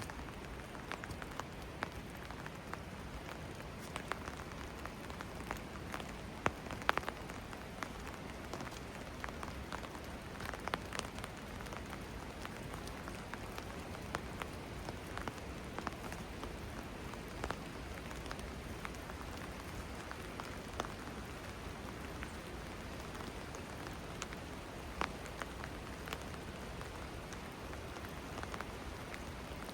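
Steady rain falling on hard surfaces, an even hiss dotted with scattered sharp ticks of single drops landing close by.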